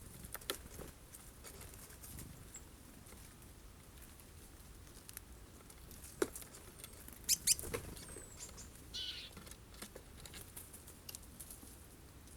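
Birds at a sunflower-seed feeder: scattered light taps and clicks of pecking and landing, with a louder cluster of taps past the middle. A brief high, falling chirp comes about eight seconds in, followed by a short harsh call.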